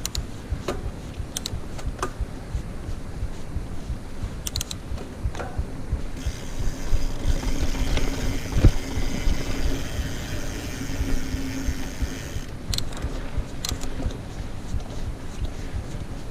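Mountain bike rolling fast over a dirt trail: steady rumble of tyres and wind buffeting the microphone, with scattered sharp clicks and rattles from the bike. A brighter buzzing hiss comes in for about six seconds in the middle.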